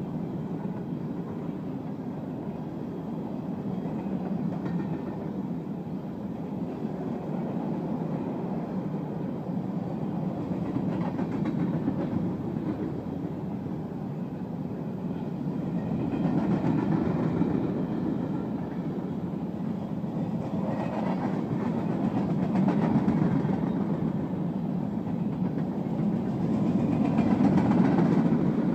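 Covered hopper cars of a freight grain train rolling past: a steady rumble of steel wheels on the rails with clickety-clack, swelling several times and loudest near the end.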